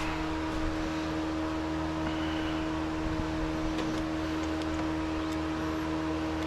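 Steady machine hum, one even tone with several lower and higher partners that does not change, with a few faint small ticks over it.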